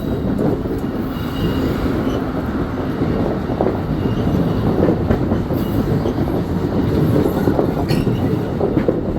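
Amtrak passenger train cars rolling past, with the steady noise of steel wheels on the rails.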